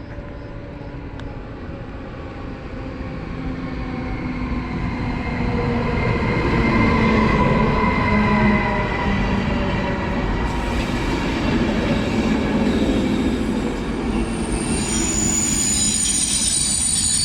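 A train drawing closer and slowing, its rumble growing louder over the first six seconds, with a slowly falling whine. A high-pitched metallic squeal of wheels or brakes sets in near the end.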